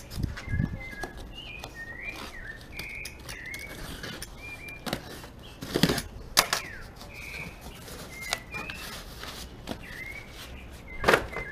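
A bird calling again and again with short high chirping notes, some sliding in pitch, over the rustling and tearing of a cardboard box being opened by hand; the loudest scrapes of the cardboard come about halfway through and near the end.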